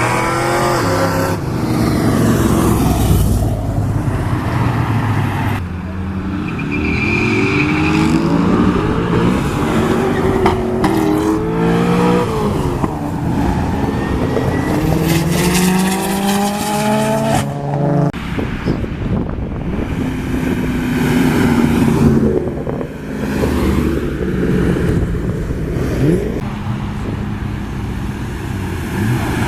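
Car engines revving and driving past one after another, their pitch climbing and falling repeatedly.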